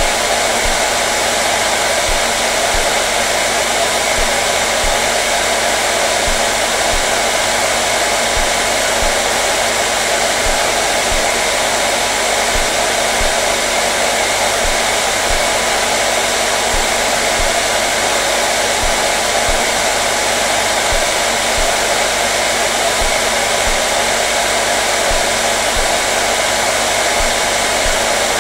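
Hair dryer running steadily: a constant, loud rush of blown air with a steady motor hum underneath, played as continuous white noise.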